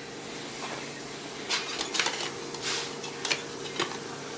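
Kitchen clatter of cookware and utensils: several short clinks and knocks, spread out through the middle, over a steady background hum.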